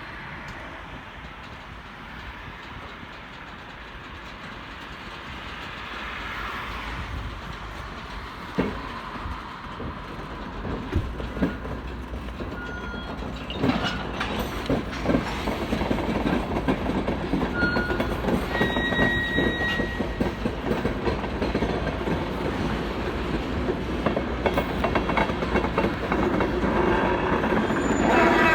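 Freight train rolling by, its rumble growing louder, with the wheels clicking and knocking over rail joints and a few brief high-pitched wheel squeals about two-thirds of the way through.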